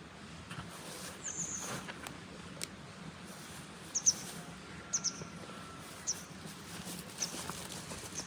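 A small bird chirping outdoors: short, high double chirps repeated about once a second, with a few light clicks among them.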